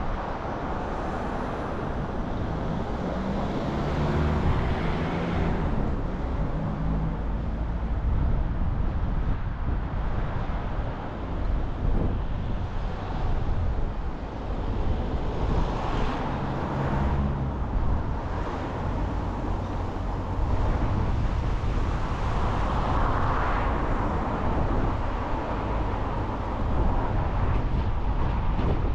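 Car driving on the road: steady tyre and road noise with the engine note coming up about two to six seconds in and again around sixteen seconds, and swells of noise from passing traffic.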